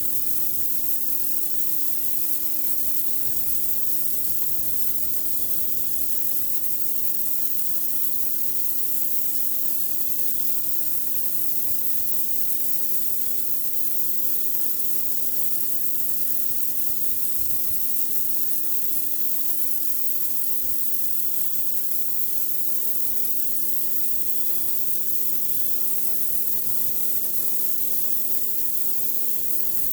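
Pressure washer running steadily: a constant hum from its motor and pump under the hiss of a high-pressure water jet blasting a concrete driveway.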